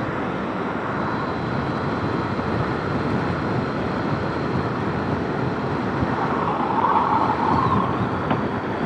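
Steady wind and road noise buffeting a motorcycle helmet's intercom microphone at speed, with the bike's engine running underneath. It swells briefly about seven seconds in.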